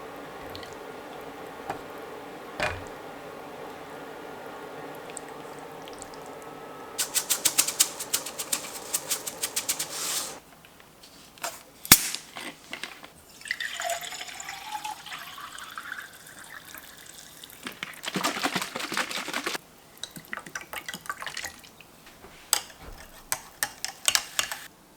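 Kitchen sounds: water running and being poured, with a steady hum at first, bursts of rapid clicking and clattering, and a single sharp click about twelve seconds in.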